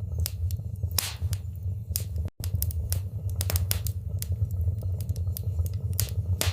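Wood fire burning in a fireplace: irregular crackles and sharp pops over a steady low rumble of flames. The sound cuts out for a split second a little over two seconds in.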